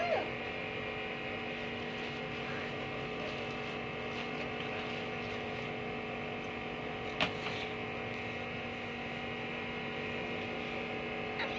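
Steady machine hum made of several unchanging tones, from a running electric motor or appliance, with one brief high squeak about seven seconds in.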